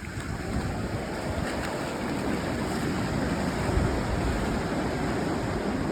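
Steady rush of wind buffeting the microphone over the sound of waves on open water.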